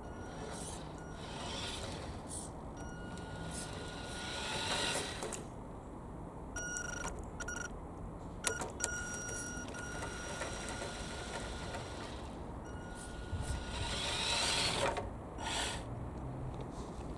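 Tamiya radio-controlled Mini's electric motor and gearbox whining as it drives, with the whine rising twice as it speeds up, about four seconds in and again near the end.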